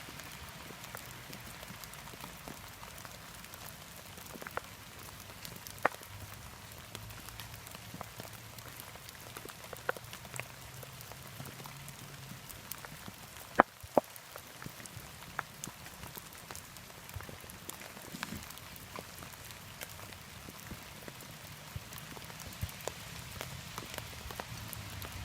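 Steady rain falling, an even hiss broken by scattered sharp taps of drops, the loudest a little past halfway through.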